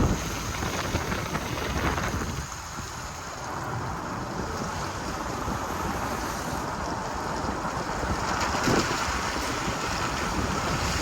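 Wind rushing over a camera microphone held out of a moving pickup's window, mixed with road and light rain noise.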